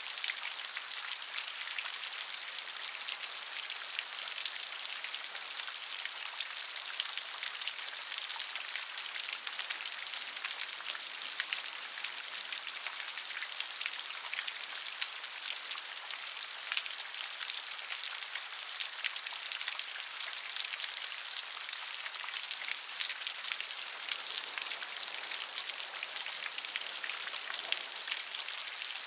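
Steady rain falling on a surface, a constant hiss dense with the pattering of individual drops.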